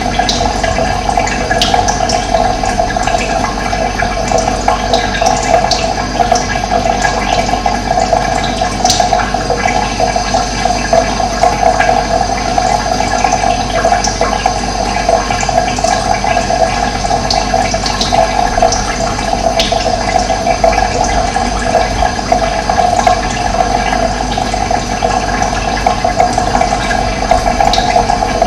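Steady rushing of running water, like a stream, with short high bird chirps dotted through it every few seconds.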